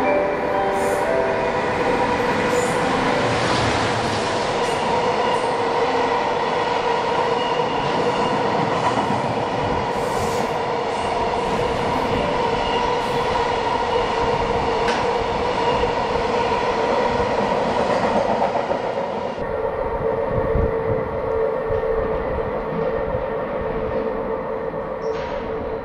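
Freight train of oil tank wagons hauled by an EF210 electric locomotive rolling past: a continuous rumble of wheels on rails with occasional clacks and a steady humming tone. It turns a little quieter and duller about three-quarters of the way through, as the end of the train pulls away.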